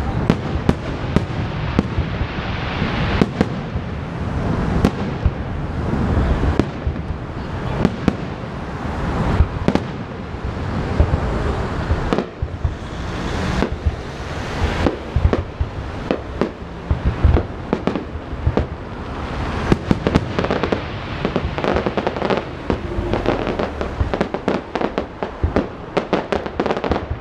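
Fireworks display: a continuous barrage of shells bursting, dense sharp bangs and crackles over a steady rumble, with rapid clusters of pops toward the end.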